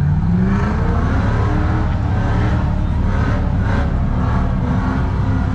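Off-road rig's engine revving hard under load, its pitch climbing over the first second or so, then holding high and wavering as the throttle is worked.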